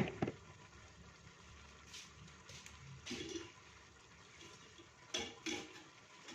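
A pan of stir-fry with coconut milk simmering and bubbling quietly. A sharp click comes at the very start, and a few short clatters follow, about two, three and five seconds in.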